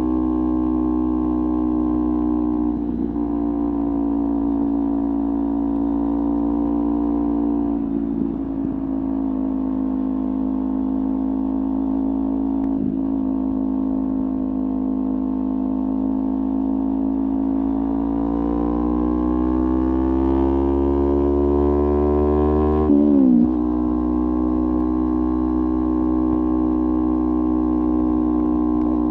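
Kawasaki Ninja 400's parallel-twin engine through a LeoVince aftermarket exhaust, running at a steady pitch while riding. About two-thirds of the way in it rises in pitch for several seconds, then drops abruptly and settles back to a steady note.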